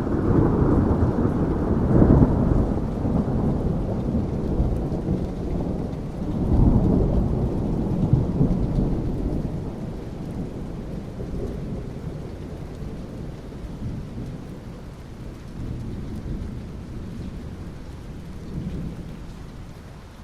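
Thunder rolling over steady rain: a long rumble peaks about two seconds in and a second one swells around seven seconds in. Both then die away into lower, softer rolls under the rain.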